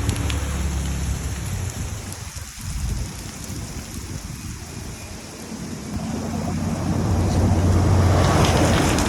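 Rainstorm with very strong wind: rain hissing and wind buffeting the microphone, swelling to its loudest near the end.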